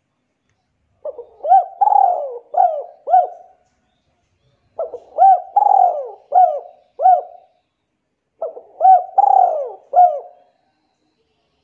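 A bird calling in three repeated phrases, each of four or five quick notes that rise and fall in pitch, the phrases a few seconds apart.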